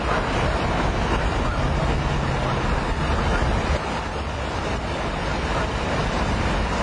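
Strong storm wind rushing and buffeting over the microphone, with a low vehicle engine hum underneath.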